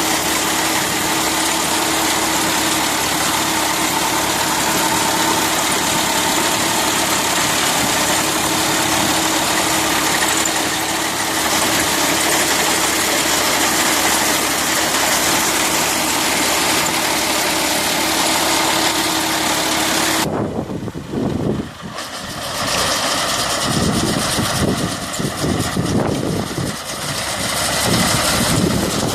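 Tractor engine running steadily with a constant hum. About twenty seconds in the sound changes abruptly to a rougher, uneven mechanical noise.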